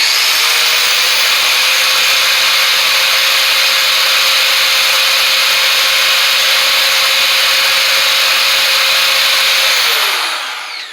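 Power grinder grinding a burr off a steel bench-vise part, a loud steady hiss over the motor's even whine. About ten seconds in the tool is switched off and its whine drops in pitch as it spins down.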